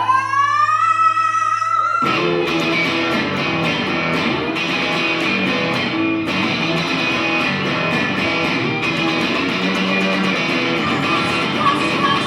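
Live rock band playing loud. A guitar note slides steeply up and holds, then about two seconds in the full band crashes in with drums and guitars in a noisy jam.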